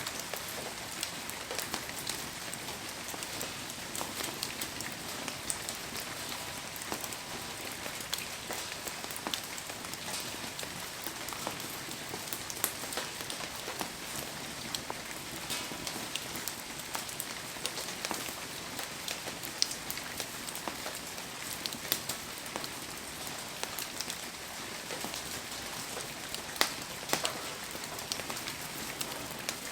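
Heavy rain falling steadily, with many sharp ticks and pops scattered through it, the loudest a few seconds apart.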